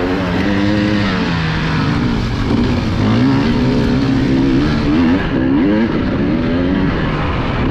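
Enduro motorcycle engine heard close up from onboard, revving up and down as the rider works the throttle, its pitch rising and falling again and again.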